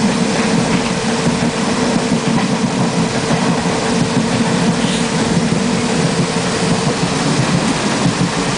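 A moving passenger train, heard from inside the carriage, running steadily with a constant low rumble. A steady hum runs under it and fades out near the end.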